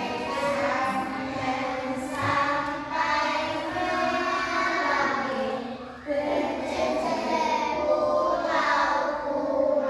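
A class of young schoolchildren singing a song together in unison, with a short break between phrases about six seconds in.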